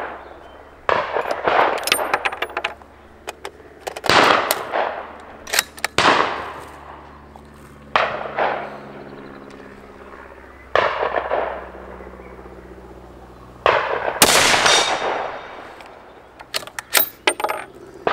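Bolt-action Remington 700 Tactical .308 rifle fired at steel gongs, a shot every couple of seconds, about eight in all. Several shots are followed by the ringing clang of the struck steel gong, and a few sharp metallic clicks come near the end.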